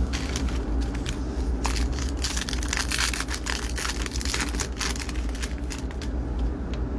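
Foil trading-card pack wrapper being torn open and crinkled in the hands, a dense crackling that is busiest in the middle seconds, over a steady low hum.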